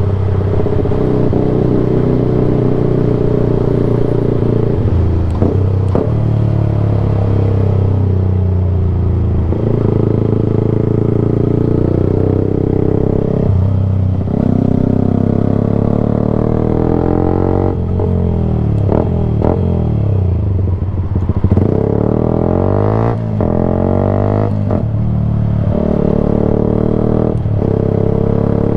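Yamaha sport bike engine running through an aftermarket Black Widow silencer with no baffle, very loud, its revs repeatedly rising and falling as the rider accelerates, shifts gear and slows.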